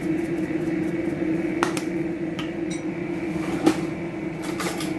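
A few sharp clicks and light knocks of kitchen utensils and containers while a marinade is being put together, over a steady low hum.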